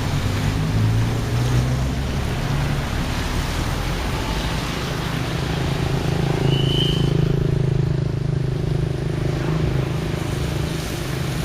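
Storm wind and heavy rain rushing steadily over a low, steady hum, with a brief high chirp about seven seconds in.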